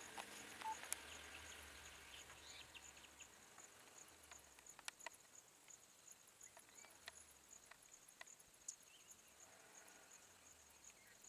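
Faint night-time ambience: a steady, high-pitched insect trill pulsing rapidly, with scattered small clicks.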